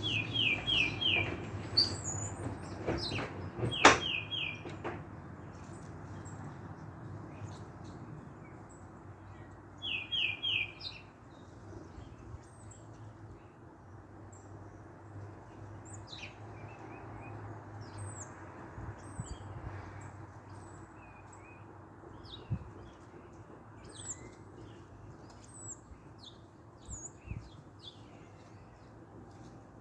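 Small songbirds chirping: a quick run of four short notes heard three times (near the start, about four seconds in and about ten seconds in), with scattered short high chirps throughout, over a steady low background rumble. A single sharp click about four seconds in is the loudest sound.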